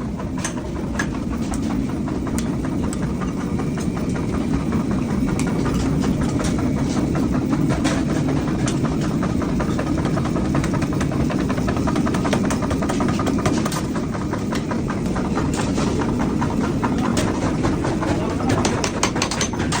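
Workshop machinery running steadily: a low drone with a fast, continuous clatter of small knocks and clicks.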